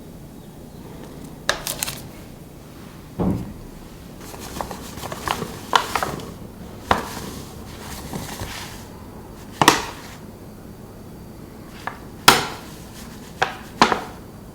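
Kitchen utensils and dishes being handled on a counter: a series of separate clinks, taps and knocks, with a dull thud about three seconds in and a sharp clack near the end.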